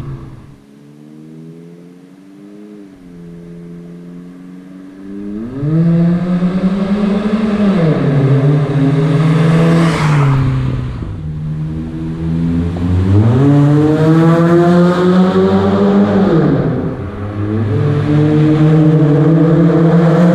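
Chevy Cobalt's 2.2-litre four-cylinder engine through a ZZP long-tube header, catless downpipe and full 3-inch exhaust, revving up and easing off several times as the car accelerates. It is quieter for the first few seconds, then climbs sharply in pitch about five seconds in, with further pulls in the middle and near the end.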